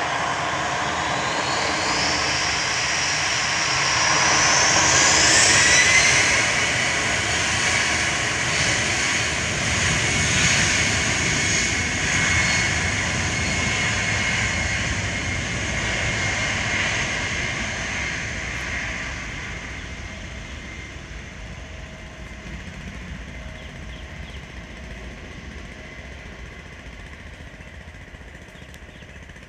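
Jet engines of a Boeing 737-300 cargo jet, its CFM56 turbofans, running loud with a whine that rises in pitch in the first few seconds. The noise stays strong for a while, then fades steadily over the last ten seconds or so as the plane moves away.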